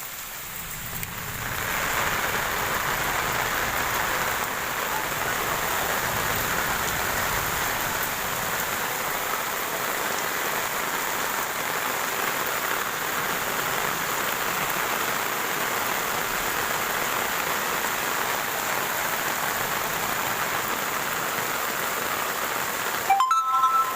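Heavy rain falling steadily, an even hiss of drops on surfaces that swells over the first two seconds. Near the end the rain cuts out briefly and a short pitched sound, the loudest moment, breaks in.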